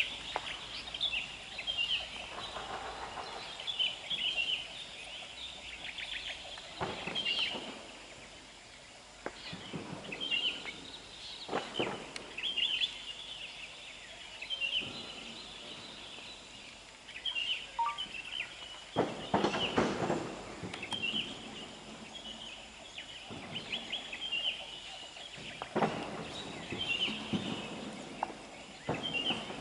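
A bird calling over and over, a short high call every second or two. A few brief, louder bursts of noise break in, the strongest about twenty seconds in.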